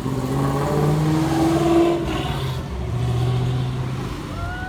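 Old car's engine accelerating as it drives past, its pitch rising for about two seconds and then falling away, with another engine running steadily a little later.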